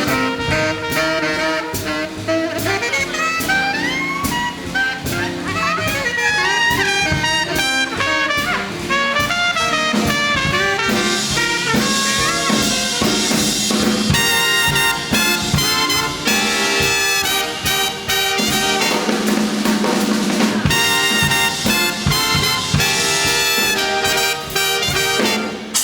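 Big band playing an instrumental chorus of a swing tune: brass with trumpets over a drum kit, with cymbal wash building in the fuller ensemble stretches past the middle.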